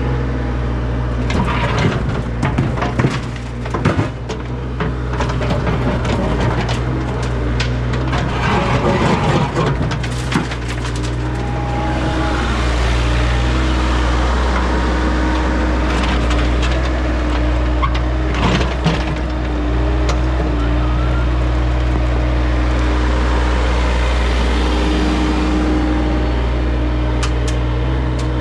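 Engine of heavy digging equipment running steadily, with repeated cracking, knocking and crunching as material is broken up and dug out, busiest in the first half.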